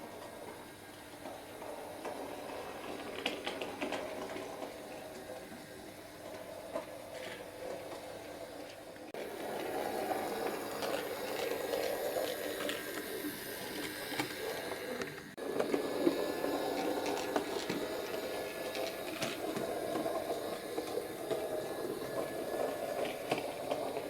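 Bachmann Class 03 model shunter running along model railway track: a steady whirr from its small electric motor with scattered light clicks from the wheels over rail joints and points. The sound steps louder about nine seconds in, dips briefly, then steps up again about fifteen seconds in.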